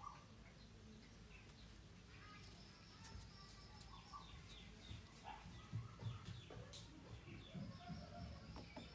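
Near silence with faint birds chirping off and on in the background and a few soft knocks.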